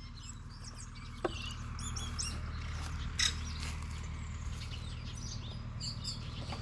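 Small birds chirping and twittering in short high calls throughout, with two sharp clicks, one about a second in and another about three seconds in, over a steady low rumble.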